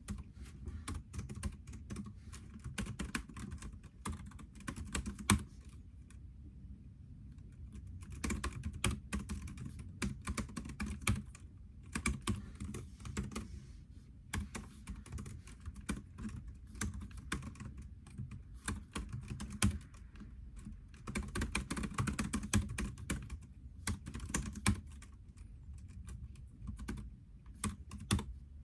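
Typing on a computer keyboard: quick runs of key clicks broken by short pauses, over a faint steady low hum.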